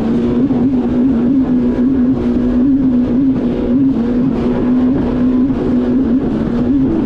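Yamaha VX Cruiser H.O. WaveRunner engine and jet pump running at a steady high speed. The pitch wobbles slightly, with water rushing and wind noise over it.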